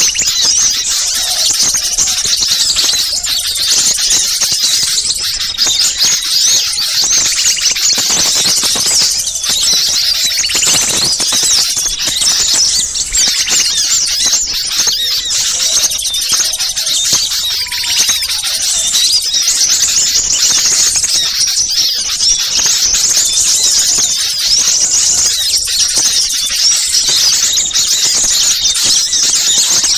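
Dense, unbroken chorus of many small birds calling at once, a rapid jumble of high-pitched chirps and trills. It is a bird-lure recording of rowdy small birds, used to draw wild birds in.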